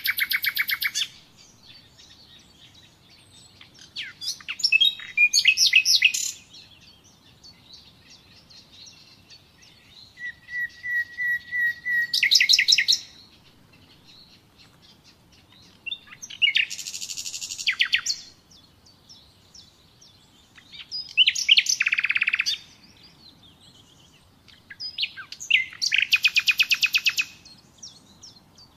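Common nightingale singing: short phrases of rapid, repeated notes and trills, one opening with a long held piping note that breaks into a fast trill, each phrase followed by a pause of a few seconds.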